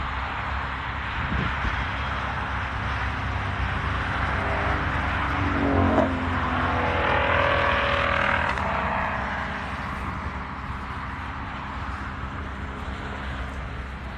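A car's engine swelling as it passes by and then fading, over steady outdoor background noise.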